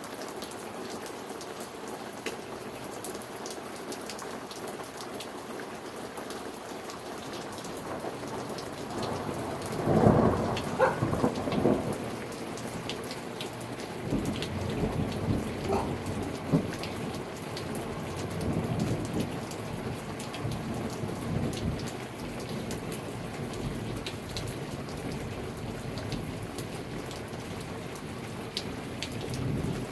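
Steady rain with drops pattering on a surface. About a third of the way in, a roll of thunder builds to a loud peak, then rumbles on in waves for several seconds before fading back under the rain.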